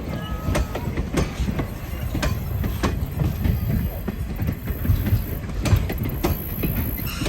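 Passenger train cars rolling past on track, a steady low rumble with irregular clicks of the wheels over rail joints.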